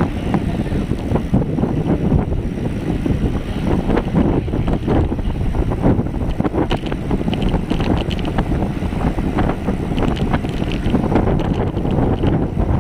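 Wind buffeting the microphone of a cyclist riding fast downhill: a loud, steady rush with no let-up.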